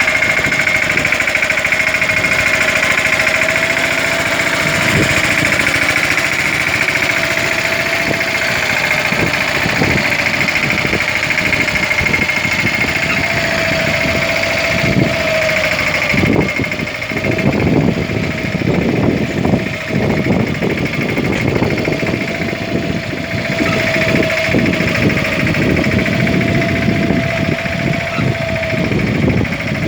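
Mahindra Yuvraj 215 mini tractor's single-cylinder diesel engine running steadily with a rapid knocking beat, which grows heavier and less even from about halfway through.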